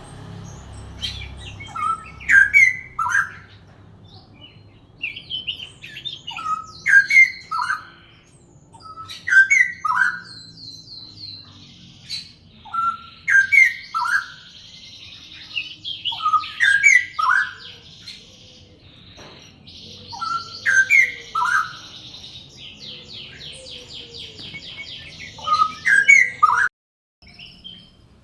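Songbirds singing: a short, loud phrase repeated about every three seconds, with a faster, higher trill filling the gaps for long stretches. The sound cuts off suddenly near the end.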